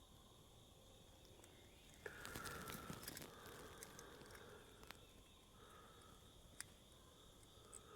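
Near silence: room tone with a few faint small clicks and a faint rasping sound twice.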